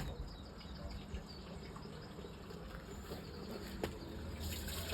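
Quiet wait at an open drain with a low hum and faint chirps, then about four seconds in a rush of water starts: flushed toilet water coming down the drain line.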